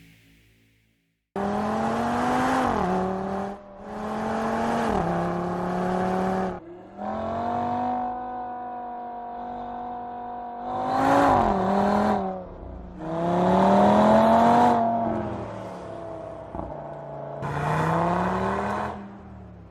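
2019 Audi TT RS's 2.5-litre turbocharged five-cylinder engine pulling hard, starting about a second in. Its pitch climbs and then drops sharply several times as the car accelerates through the gears. It is loudest near the middle.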